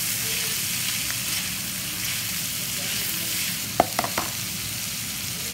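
Carrot strips and meat sizzling in a frying pan as they are stir-fried with a nylon spatula, with three quick sharp taps about four seconds in.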